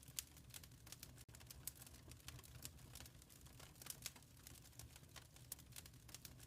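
Wood fire crackling faintly in a fireplace: irregular sharp crackles and pops, several a second, over a low steady rumble.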